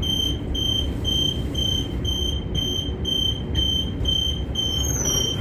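Transperth electric train's door-closing warning beeping steadily, about two high beeps a second, over the low hum of the train: the doors are about to shut. A short gliding whine comes near the end.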